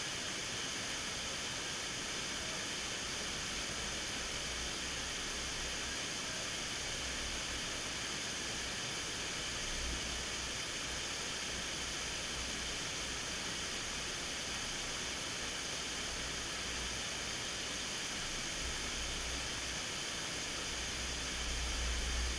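Waterfall: a steady, even rush of falling water, with low rumbles of wind on the microphone about ten seconds in and again near the end.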